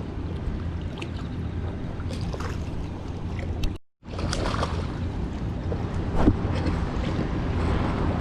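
Wind rumbling on the microphone, with faint scattered clicks. The sound drops out completely for a moment about four seconds in.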